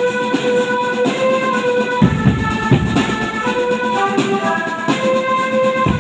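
Drum band playing a sholawat melody in held notes over marching drums; the heavy low drum strokes come in about two seconds in and drop out just before the end.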